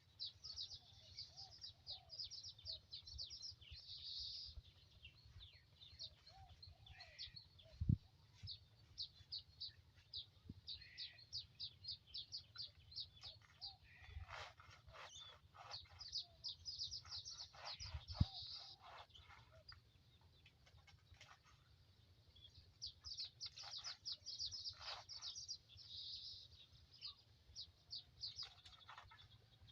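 Birds chirping in rapid, high trills, with two short dull knocks, one about a quarter of the way in and one past the middle, and a run of quick clicks between them.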